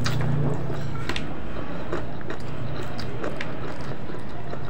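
Close-up eating sounds: chewing and mouth smacks with irregular small clicks as fried tilapia and rice are eaten by hand, over a steady low hum.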